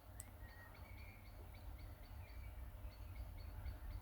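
Faint outdoor ambience: birds chirping in short repeated notes, a few brief whistled calls among them, over a steady low rumble.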